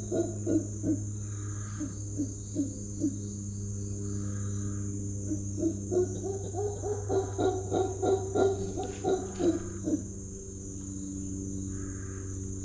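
Howler monkeys calling in a series of short, deep, rhythmic grunts, about three a second, in two bouts. The calls stop about three seconds in, start again near six seconds and stop at about ten. A steady high drone of rainforest insects runs underneath.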